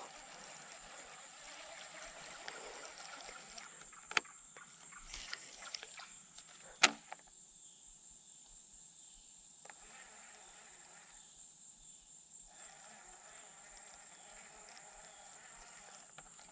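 Steady high-pitched insect drone over a faint outdoor background, with a few sharp clicks or knocks, the loudest about seven seconds in.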